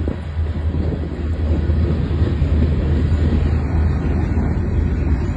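A freight grain train rolling past, a steady loud rumble of the cars on the rails with no distinct horn or bell.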